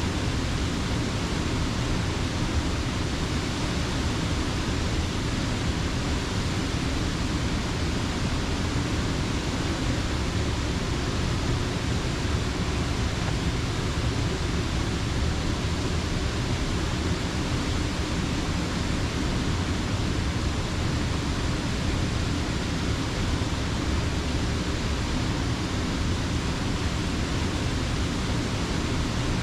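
Steady rush of fast-flowing creek water, an even noise with no breaks or other events.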